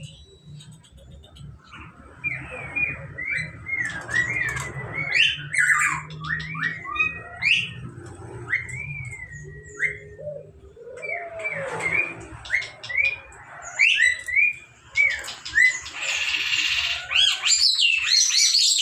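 A jalak jawa (Javan starling) singing in runs of short up-and-down whistled notes mixed with harsh, chattering squawks. The song grows busier and louder near the end. A low hum sits underneath for the first half.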